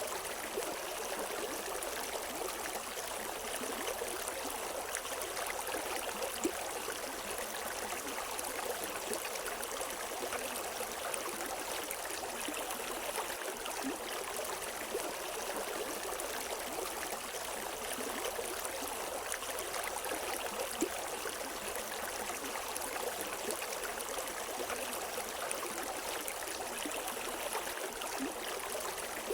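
A river stream flowing steadily over rocks, a constant rushing babble with small splashes and trickles scattered through it.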